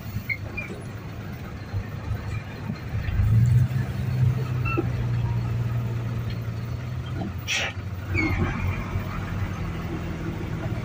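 Truck engine running at idle, a steady low hum that grows louder about three seconds in, with a single sharp click about halfway through.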